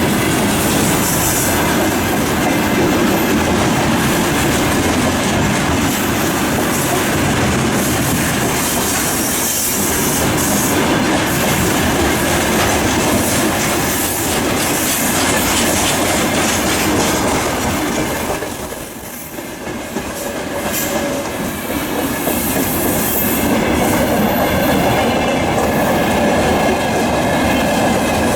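Container freight train wagons rolling past: a steady loud rumble with wheels clattering over rail joints and bursts of high wheel squeal. The noise drops briefly about two-thirds of the way through, then builds again.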